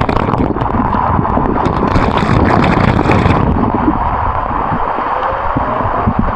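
Water rushing and splashing down a limestone waterfall cascade, with low wind rumble on the microphone and a few small knocks in the first seconds.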